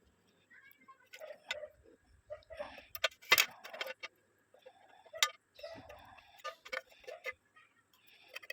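Irregular light clicks and taps of small plastic and metal mobile-phone parts and a repair tool being handled on a workbench, with a few sharper clicks and brief rustles in between.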